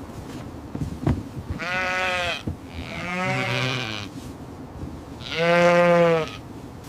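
An animal bleating, three calls about a second long each, the middle one quavering. A short knock comes about a second in.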